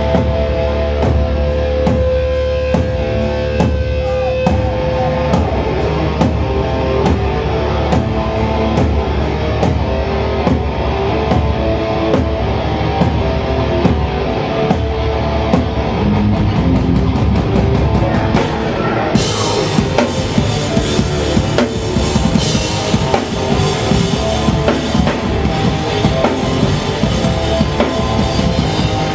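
Hardcore punk band playing live: distorted electric guitar, bass and fast, driving drums, with cymbals crashing brighter in the last third.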